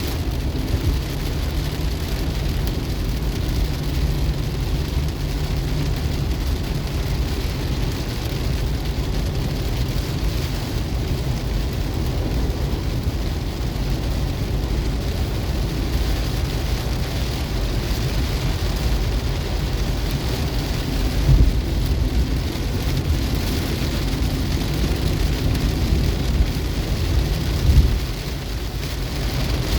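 Heavy rain beating on a car's roof and windscreen, heard from inside the moving car over a steady low road rumble. Two short louder low thuds come about two-thirds of the way through and again near the end.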